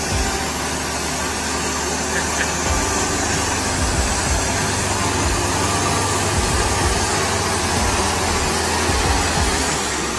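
Heavy truck engine running steadily, under a broad hiss with an uneven low rumble.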